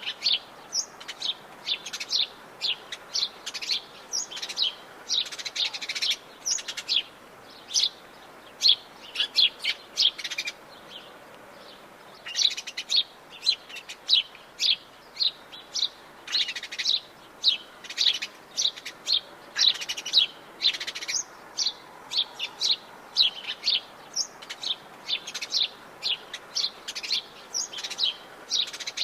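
Atlantic Forest birds chirping and singing: many short, high calls in quick succession, with a brief lull about eleven seconds in.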